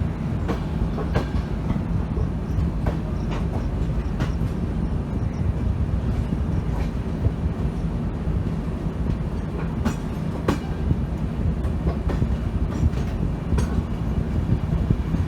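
Passenger train running: a steady low rumble of the wheels on the track, with irregular sharp clicks as they pass over rail joints.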